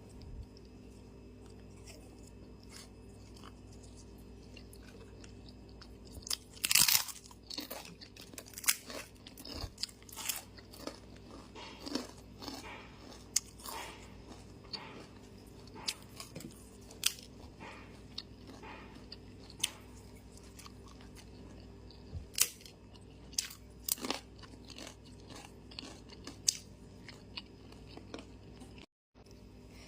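Close-up eating sounds: a person chewing and biting food with wet smacking and crunching clicks at an irregular pace, starting about six seconds in, over a steady low hum. The sound cuts out briefly near the end.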